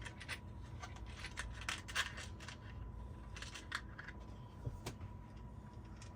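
Loose screws clicking and rattling as they are picked through in a screw bucket: a string of light, irregular metal clicks, a few louder about two seconds in and near the end.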